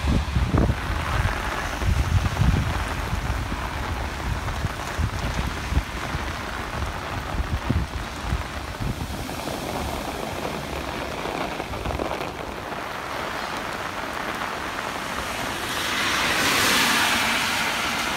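Heavy rain falling, with gusts of wind buffeting the microphone in the first few seconds. Cars swish through standing floodwater, and a louder tyre-on-water swish swells and fades near the end.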